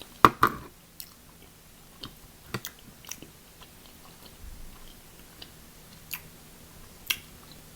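Close-up eating sounds from a seafood boil: chewing and biting, with scattered sharp clicks and cracks. The loudest are two quick clicks just after the start.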